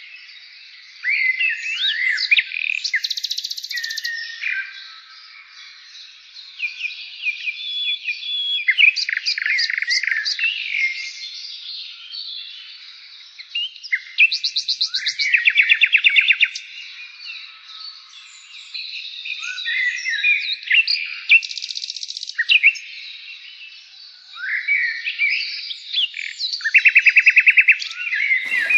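Songbird singing: varied whistled phrases, trills and fast runs of chirps, returning every few seconds.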